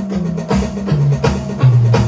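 Drums being warmed up: a steady fast pattern of light strikes played with music whose low bass notes step down in pitch. The playing gets louder and heavier near the end.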